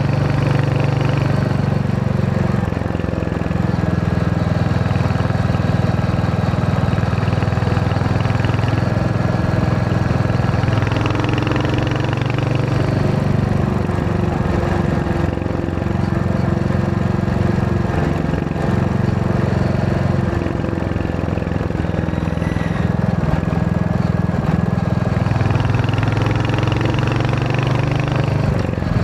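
Royal Enfield Hunter 350's single-cylinder engine running on the move, its note stepping up and down several times as the throttle and gears change.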